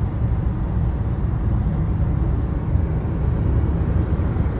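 Steady low rumble of a vehicle on the move: road and engine noise, with no distinct impacts.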